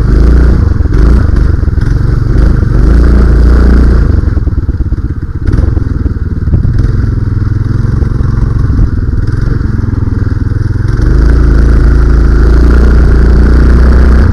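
Small single-cylinder four-stroke Honda-clone engine driving a minibike through a go-kart torque converter, running under load as it is ridden. It is loud with the throttle open, eases off for several seconds around the middle, then opens up again near the end.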